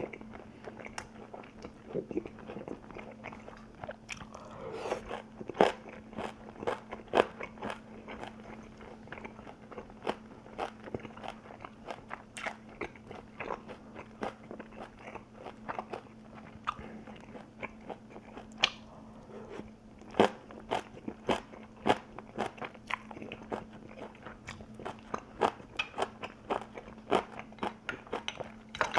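Close-miked chewing of crunchy food: irregular crisp crunches and bites, several a second, over a steady low electrical hum.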